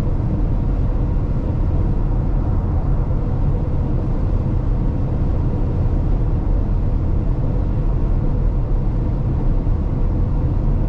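Steady road and tyre rumble inside the cabin of a 2022 Tesla Model X cruising at highway speed on a wet road, with no engine note, since the car is electric.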